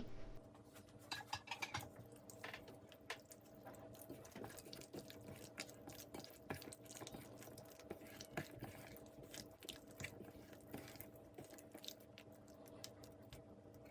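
Chicken pieces being mixed into a thick yogurt and spice marinade in a bowl: faint, irregular wet squelches and small clicks, over a steady low hum.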